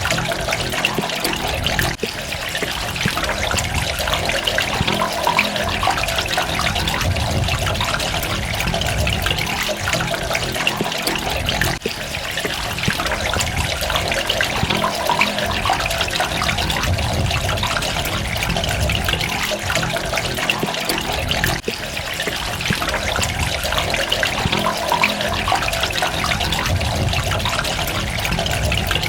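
Steady running, trickling water, with brief dips about every ten seconds.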